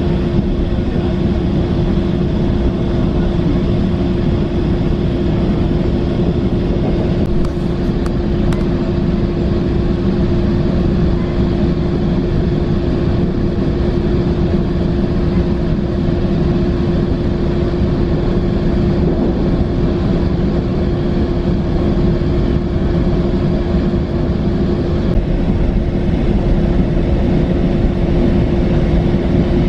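Metrolink commuter train running between stations, heard from inside the passenger coach: a steady rumble with one constant hum under it.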